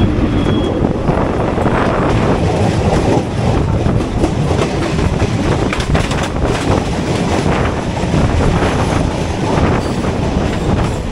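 Express passenger train running at speed, its wheels clattering over rail joints, while a local train passes close by on the next track.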